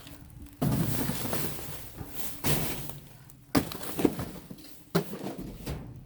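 Rummaging through trash in a dumpster: cardboard and bags rustling and scraping, with several sharp knocks and clatters.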